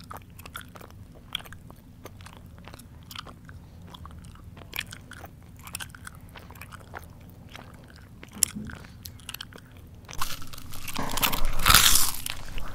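Close-up mouth chewing: small wet smacks and clicks, then loud crunching from about ten seconds in as crisp food such as potato chips is bitten and chewed.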